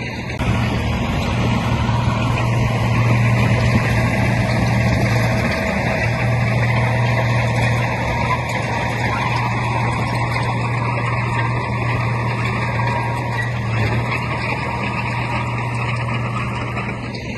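Diesel engine of heavy earthmoving machinery running steadily, a loud continuous drone with a strong low hum.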